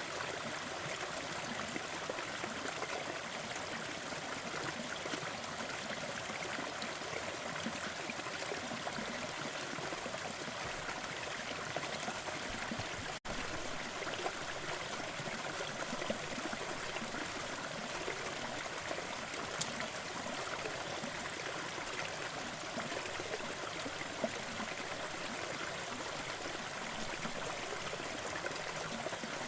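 Waterfall: falling water rushing in a steady, even wash, broken by a momentary dropout about thirteen seconds in.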